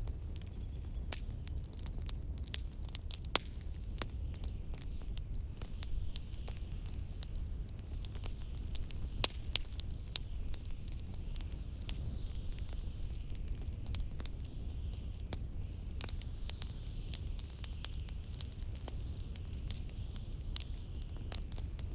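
Wood fire crackling in a fireplace, with frequent sharp pops, over a steady low rumble of blizzard wind.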